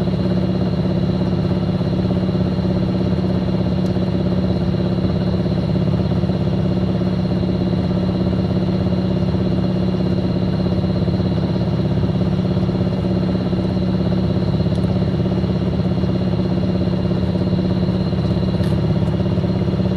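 Fisher & Paykel MW059 top-load washing machine running at a steady speed: a constant, loud hum with a faint high whine above it.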